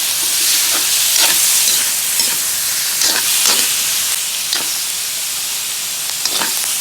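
Pork and chicken liver sizzling in hot oil in a pan, with a steady hiss. A spatula scrapes and knocks against the pan several times as the meat is stirred.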